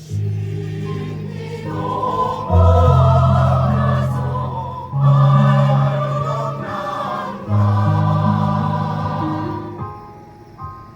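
Choir singing a slow song in sustained chords, with a loud new chord entering about every two and a half seconds before the sound fades near the end.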